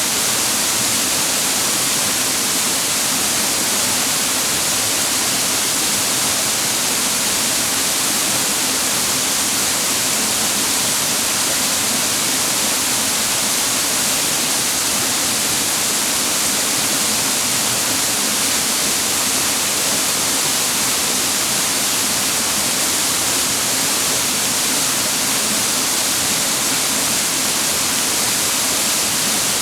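Waterfall pouring steadily over rock: a constant, even rush of water with a strong hiss and no let-up.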